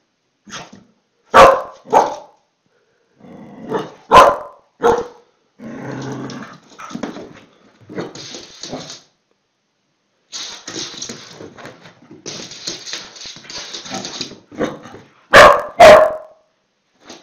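A dog barking at a lemon wedge held out to it. Its loud, sharp barks come in pairs: about a second and a half in, about four seconds in, and near the end. Softer scuffling noise fills the gaps between the pairs.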